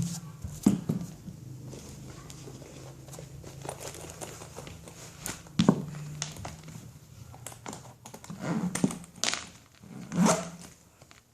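High-heeled shoes stomping on a vacuum cleaner's plastic housing: a string of separate thuds and cracks, with clusters of blows about five and a half seconds in, around eight to nine seconds, and near ten seconds.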